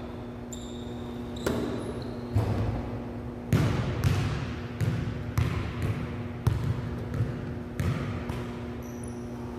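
A basketball bouncing on a court floor in irregular, uneven dribbles, about a dozen thuds, with a few short high squeaks near the start and near the end.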